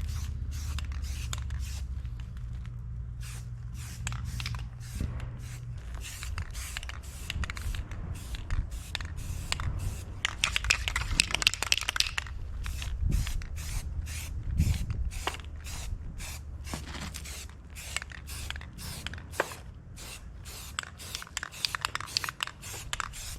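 Paint being sprayed onto a metal battery tray, hissing out in many short bursts, with a longer, louder stretch of spraying about halfway through. A low steady hum runs underneath.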